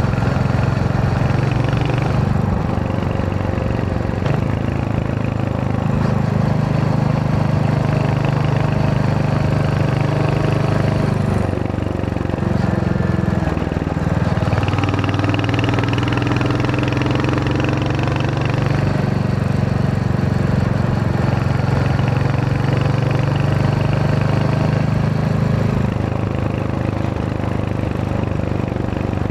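Royal Enfield Hunter 350's single-cylinder engine running under way, a steady thumping exhaust note. The engine note drops and rises several times across the stretch, around 2, 12 and 26 seconds in.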